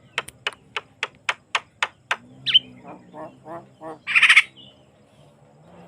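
Javan myna singing: a quick run of sharp clicking notes, about four a second, for two seconds, then a harsh note, a few lower repeated calls, and a loud harsh screech about four seconds in.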